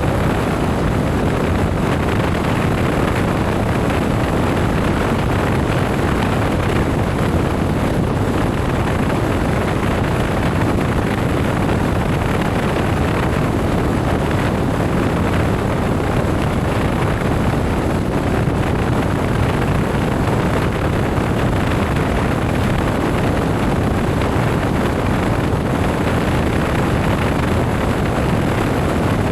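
Steady rush of wind and road noise during a motorcycle ride, with wind buffeting the microphone.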